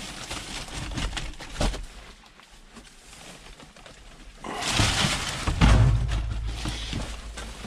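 Goods being handled in a dumpster: scattered knocks and clatter with one sharp knock about a second and a half in, then a louder stretch of clattering and heavy thuds from about four and a half seconds in, as an item is dropped into a tote.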